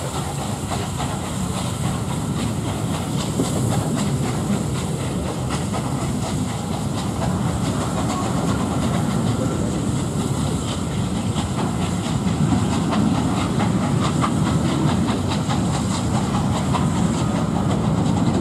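A rake of passenger coaches rolling past behind a steam locomotive, steel wheels clicking over the rail joints over a steady rumble, growing a little louder over the last few seconds.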